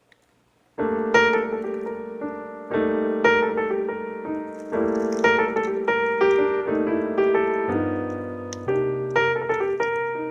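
Background piano music: chords struck about once a second, each ringing and fading, starting just under a second in after a moment of near silence.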